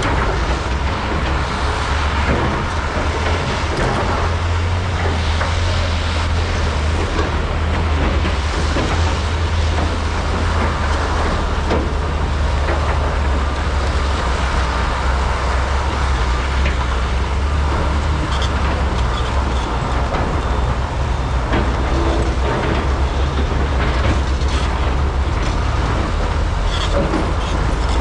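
Large hydraulic mining excavators' diesel engines running steadily under digging and loading load, a deep unbroken drone, with occasional short knocks and clanks.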